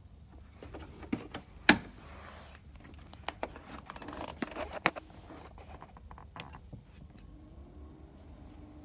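Small parts being handled at a workbench: scattered clicks and knocks with a brief rustle, the sharpest knock about two seconds in, over a steady low hum.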